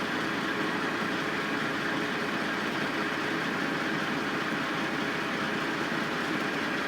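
Construction machinery engine running steadily, a constant unbroken engine sound.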